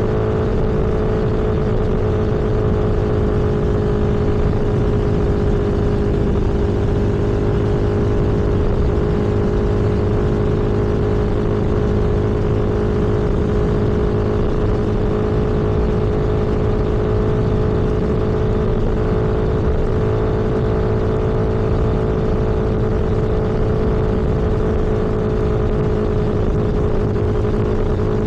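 Vehicle engine running at a steady cruise, a constant drone that holds one pitch throughout, with road noise underneath.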